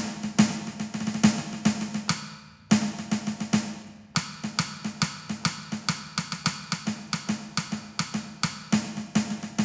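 Donner DED-200 electronic drum kit being played, its module sounding a fast, dense run of sampled snare and other drum hits, with brief lulls about 2.5 and 4 seconds in.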